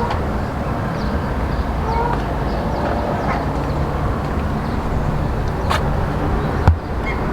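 Steady rumbling background noise with a few short, faint bird calls, and one sharp click near the end.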